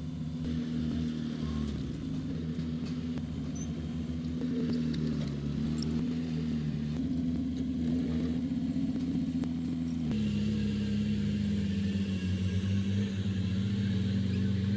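Heavy diesel construction-machine engine running, its pitch wavering slightly; about ten seconds in the sound switches abruptly to a different, steadier engine note.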